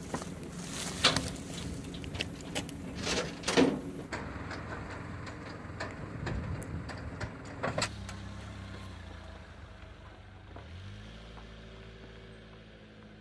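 Suzuki Fronte's air-cooled two-stroke 360 cc rear engine running, with knocks and clatter over the first few seconds. It then settles into a steady low hum that shifts pitch about eleven seconds in.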